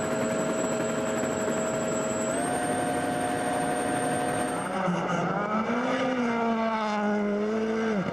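Rally car engine at high revs, holding a steady pitch and stepping up slightly a couple of seconds in. From about halfway the revs rise and fall through corners, then drop sharply at the end as the driver lifts off.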